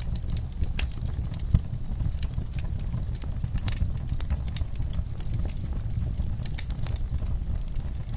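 Fireplace fire crackling and popping irregularly over a low steady rumble of the flames, with one louder pop about a second and a half in.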